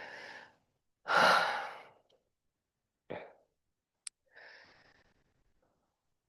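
A person breathing out heavily in sighs, catching their breath after strenuous repeated squatting. There is one strong long exhale about a second in and two shorter, softer breaths later, with a faint click between them.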